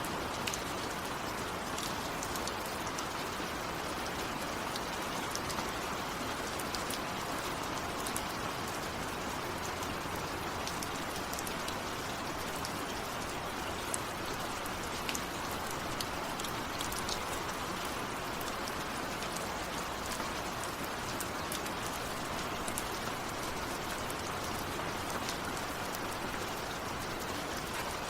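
Steady, heavy rain falling, with individual drops ticking sharply here and there over the even hiss; no thunder.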